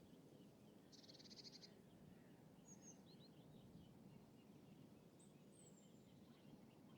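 Faint lakeside ambience: a steady low hum of distant city noise with small birds calling over it. A rapid buzzy trill comes about a second in, then short high chirps, and a thin high whistle that falls slightly around five seconds in.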